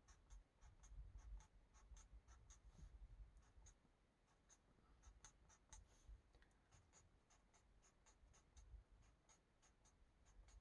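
Faint, quick scratching of a colouring tool on a colouring-book page, several short strokes a second with brief pauses.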